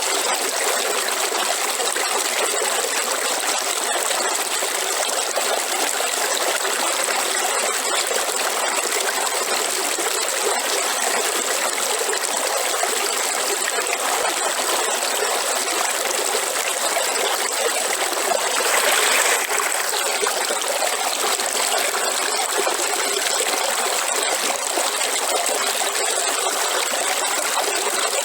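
River water running over rocks, a steady rushing and trickling with a brief louder surge about two-thirds of the way through.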